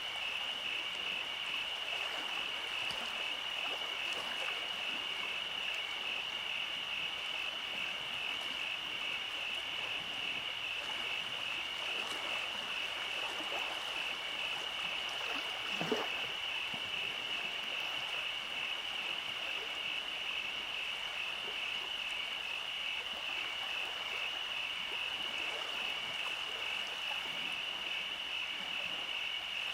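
Night chorus: a steady, evenly pulsing high-pitched trill, with one short rising call about halfway through.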